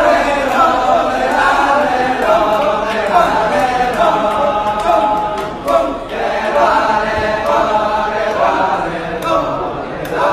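Balinese kecak chant: a large chorus of voices chanting together unaccompanied, dipping briefly about six seconds in before picking up again.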